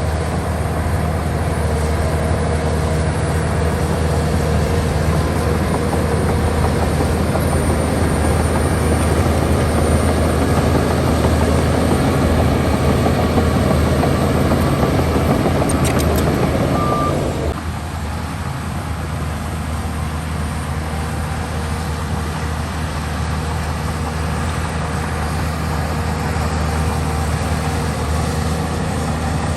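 Diesel engine of a heavy earthmoving machine running steadily with a low drone. A little over halfway through, the louder working noise on top drops away suddenly as the engine eases off, leaving a quieter steady run.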